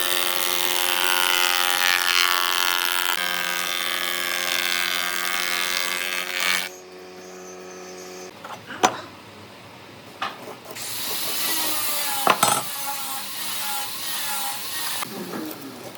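Electric power tool running while it works wood, a steady motor tone with rasping noise that stops after about six and a half seconds. After that, a few sharp knocks and scraping sounds of wood being handled.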